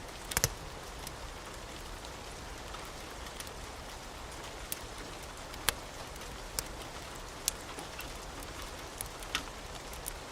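Wood fire crackling: scattered sharp pops over a steady hiss.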